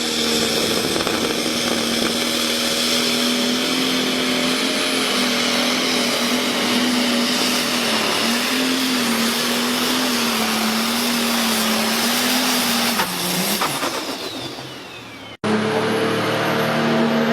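International Harvester pulling tractor engine running hard at high revs under load, holding a steady pitch that wavers slightly. Its sound falls away about thirteen seconds in, and after an abrupt cut another engine is heard running near the end.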